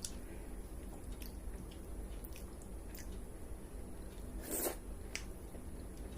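A person eating close to the microphone: soft, scattered mouth clicks of chewing about once a second, with one louder short noisy mouth sound about four and a half seconds in.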